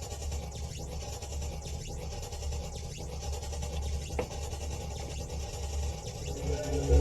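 Sparse electronic noise-music from an improv rig: a steady low hum with a few faint clicks and sweeps, and held electronic tones coming in near the end.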